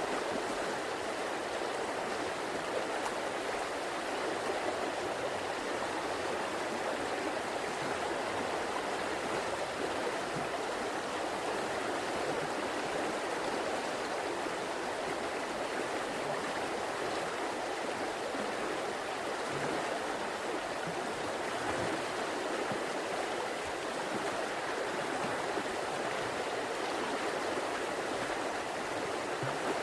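A river flowing steadily: a continuous rush of running water with no breaks.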